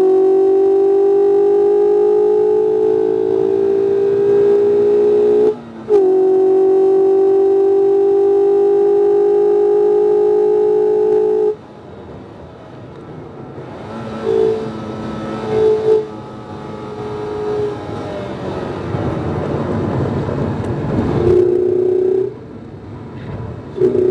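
2019 Mazda MX-5 RF's 2.0-litre four-cylinder engine pulling at full throttle, its tone rising slowly, with a short break about five and a half seconds in, typical of an upshift. Near the middle it cuts off sharply as the throttle is lifted. There follow quieter engine and road noise with a few short tones, and the engine tone picks up again near the end.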